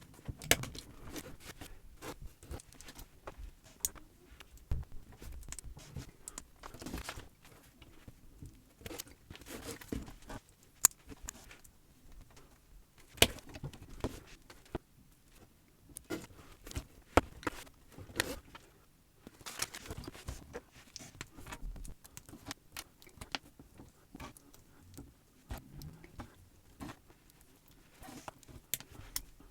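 Small plastic building bricks being handled and pressed together: irregular sharp clicks with light rattling of loose pieces.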